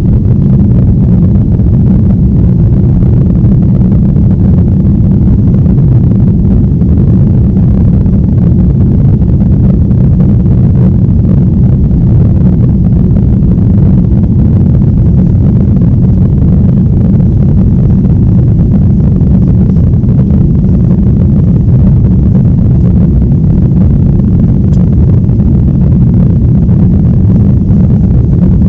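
Jet airliner cabin noise: a loud, steady low rumble.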